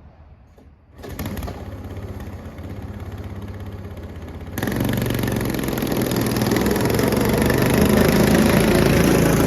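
Straight-piped 212 cc single-cylinder four-stroke engine on a Kitty Cat snowmobile, running. It comes in suddenly about a second in, gets much louder about four and a half seconds in, and keeps building after that.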